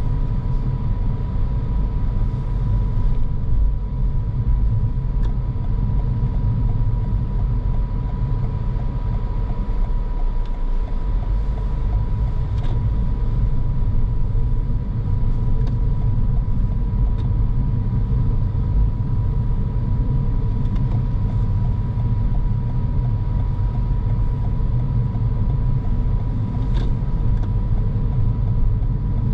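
Car driving sound: a steady low rumble of engine and tyres on the road, with a thin, constant high tone running through it and a few faint ticks.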